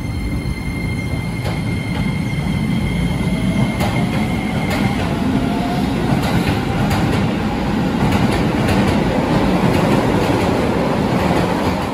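Keisei electric commuter train pulling out and gathering speed: a high motor whine gives way to a rising tone, while the wheels clack over rail joints and the rumble grows louder. The sound drops off sharply near the end.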